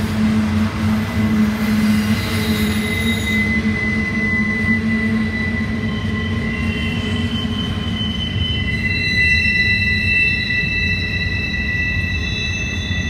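Double-stack intermodal container cars rolling past with a steady low rumble of wheels on rail. A high-pitched wheel squeal sets in about two seconds in, and several more squealing tones at different pitches join past the halfway point.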